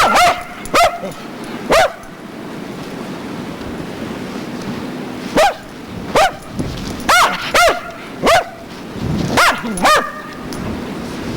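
Pet dog barking excitedly in play: about ten short barks, a few in the first two seconds, then after a pause of several seconds a quicker run of barks.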